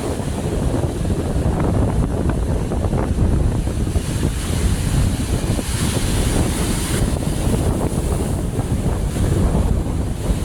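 Strong sea wind blowing across the microphone, with the rumble of waves beneath it; a stronger gust comes a little past halfway.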